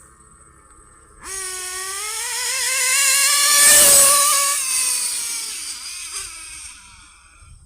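Ninja B05 nitro RC engine revving high, a small two-stroke buzz. It starts suddenly about a second in, climbs in pitch and loudness to a peak near four seconds, then fades away.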